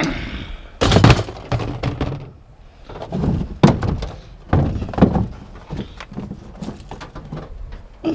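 Scrap being handled and loaded: a series of heavy, irregular thuds and knocks, the loudest about one second in and just before four seconds in.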